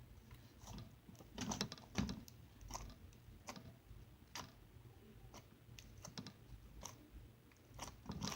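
Slime with foam beads in it being poked and squished by fingers, giving off irregular small clicks and crackles, a few louder ones about one and a half to two seconds in and again near the end.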